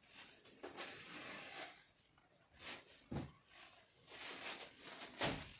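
Indoor handling noises: scattered rustling with two sharp knocks, one about three seconds in and a louder one near the end.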